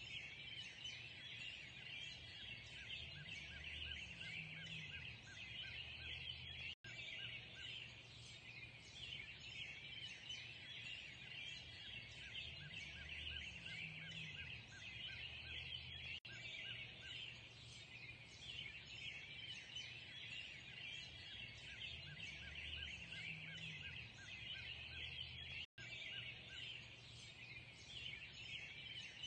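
Dense dawn chorus of many small songbirds chirping and singing over one another, steady throughout. A lower sound rises and falls about every nine seconds, and the audio cuts out for an instant three times at even spacing, like a repeating loop.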